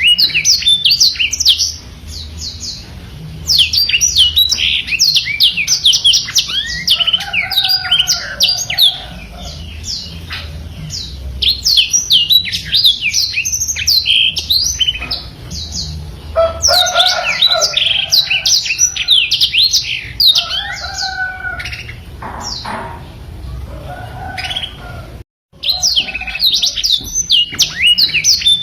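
Black-throated canary (blackthroat) singing a long, fast twittering song of rapid high notes and trills, broken by short pauses, with a few lower warbled phrases. The sound cuts out for a moment about 25 seconds in.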